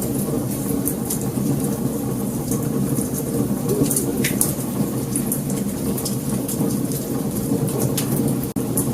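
Wood fire burning: a steady low rumble of flames with frequent small, sharp crackles and pops throughout. The sound drops out for an instant near the end.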